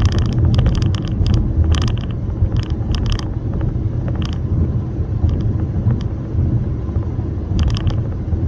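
Steady low rumble of a car on the move, with scattered light clicks.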